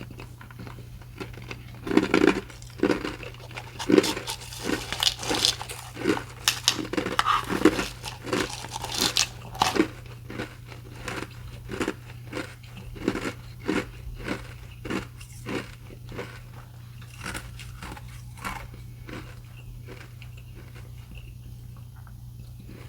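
Ice being chewed close to the microphone: a long run of sharp, crunchy bites. The crunches come thick and fast in the first half and grow sparser toward the end.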